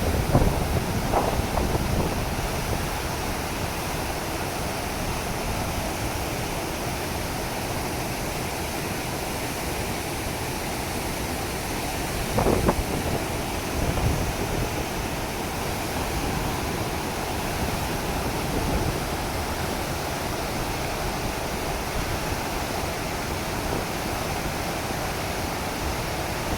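Niagara Falls thundering: a steady, even roar of falling water, with brief gusts of wind on the microphone near the start and about halfway through.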